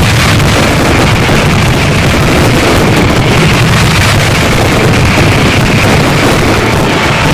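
Dense barrage of fireworks explosions, the bangs coming so fast that they merge into one continuous loud rumble.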